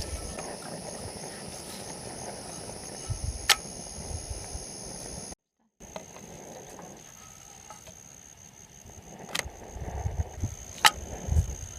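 Forest ambience with a steady high drone of insects, dropping out to dead silence for about half a second some five seconds in. A few sharp clicks and soft low thumps stand out over it.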